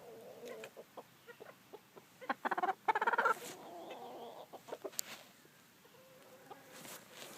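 Chickens clucking softly, with two louder, drawn-out calls about two and three seconds in.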